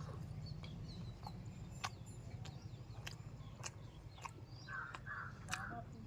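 Crows cawing three times in quick succession near the end, over a steady low hum and a few scattered sharp clicks.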